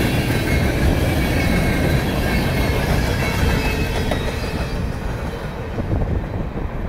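CSX freight train's gondola cars rolling past, their steel wheels rumbling on the rails with a faint, steady high wheel squeal. The sound fades somewhat near the end as the cars move away.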